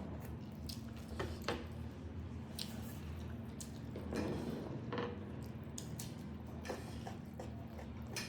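Close-up wet eating sounds of chicken curry and rice being chewed: squishy chewing with scattered lip smacks and clicks, over a low steady hum.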